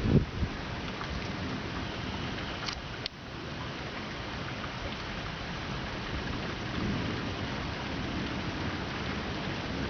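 Steady rain during a thunderstorm, with a low thump right at the start and a low rumble of thunder swelling about seven seconds in.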